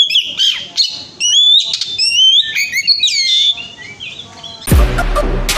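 Oriental magpie-robin singing a fast run of varied whistled phrases, slurred glides and chatters. About four and a half seconds in, electronic music with heavy bass beats cuts in.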